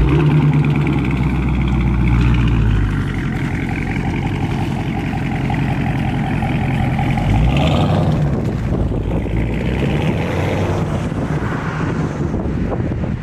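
A motor vehicle's engine running, with a strong low hum for the first three seconds and a change in pitch about eight seconds in.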